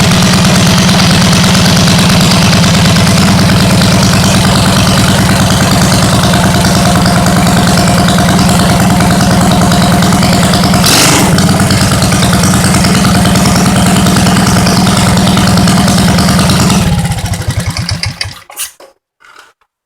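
Tecumseh OHH single-cylinder engine running steadily just after a cold start on choke, with a short burst of noise about eleven seconds in. It winds down about seventeen seconds in and stops.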